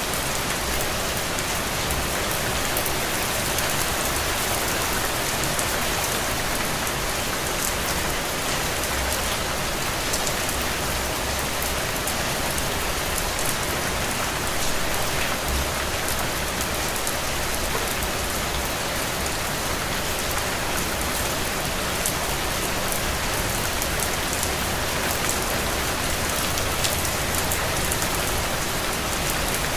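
Heavy, steady rain falling on ground and puddles: a dense, even hiss thick with fine drop patter.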